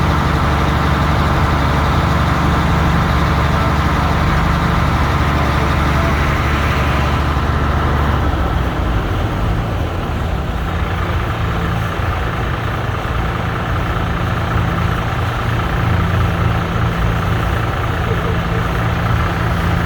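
Large diesel engine idling steadily with a low hum. The hum shifts to a different note about eight and a half seconds in.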